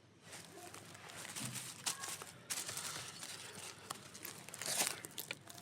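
Dry kindling (twigs, brush and leaves) crackling and snapping in a stream of small clicks, with a few sharper snaps about two seconds in and again near the end.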